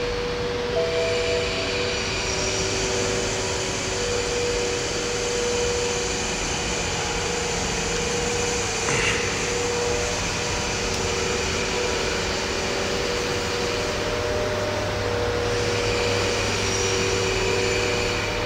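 BMW F10 523i's straight-six petrol engine idling steadily, heard as an even, continuous hum with a few steady tones. There is one brief click about halfway through.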